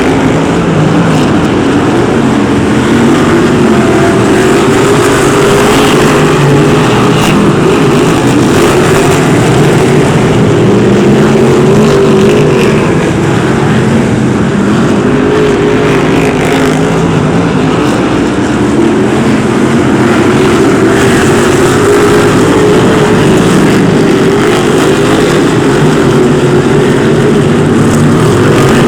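Pack of BriSCA F1 stock cars racing, their big V8 engines running hard together, the pitch rising and falling as the cars accelerate and lift off.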